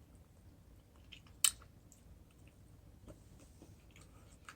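A person chewing a mouthful of green salad: faint mouth sounds with scattered small clicks, and one sharp click about a second and a half in.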